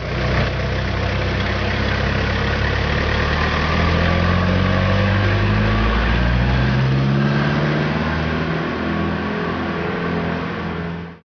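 Delivery van engine running, its pitch climbing in steps in the second half as it accelerates.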